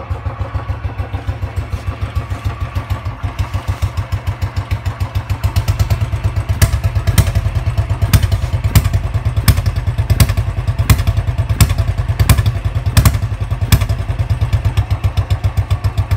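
Royal Enfield Redditch single-cylinder engine running through a chrome medium-bottle aftermarket muffler, a steady rapid thump at idle. It gets louder about six seconds in, with sharp cracks roughly every 0.7 seconds through the middle stretch.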